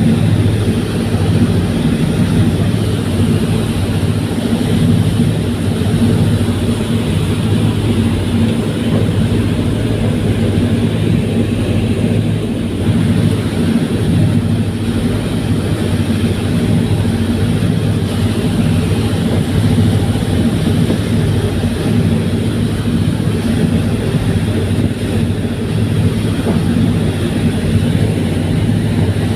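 Fast passenger ferry under way, its engines running with a loud, steady low drone and a constant rushing noise.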